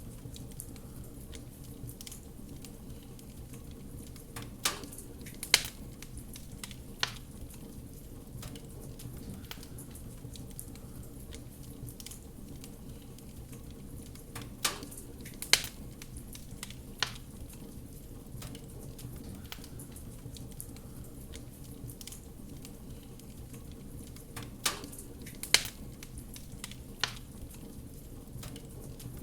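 Wood fire crackling in a fireplace: a steady low rumble of burning, with sharp pops in groups of three that come round about every ten seconds.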